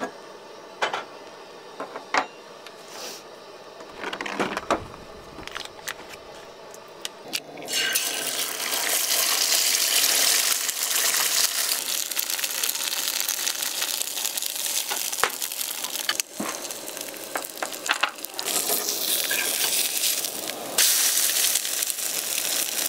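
Food sizzling in a small cast iron skillet on a two-burner camp stove. A few light clicks and knocks of utensils come first, then a loud, steady sizzle starts abruptly about eight seconds in.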